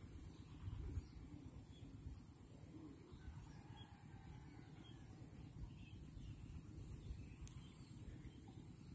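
Quiet outdoor ambience: faint, scattered bird calls over a low, uneven rumble of wind on the microphone.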